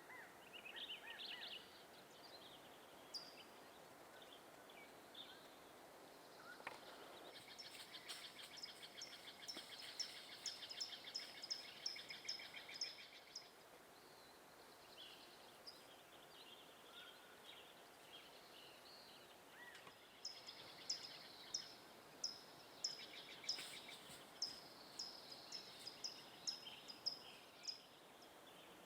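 Songbirds singing faintly: one bird repeats a short, high, falling note about two or three times a second in two long runs, one near the start and one in the second half, while other birds chirp between them.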